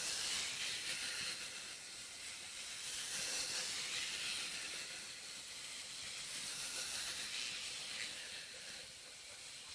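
Steady, fairly quiet hiss with no distinct events, swelling and easing slightly over the seconds.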